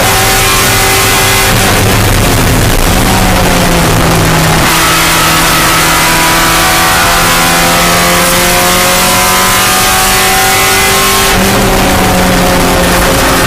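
Spec Miata four-cylinder engine racing under load. Its pitch shifts in the first few seconds, then climbs steadily through a gear for about six seconds before dropping sharply at an upshift near the end.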